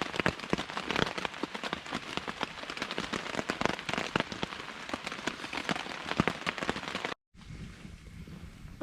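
Heavy downpour, countless drops striking close by in a dense, uneven patter. About seven seconds in it cuts off abruptly, and a much quieter low steady rumble follows.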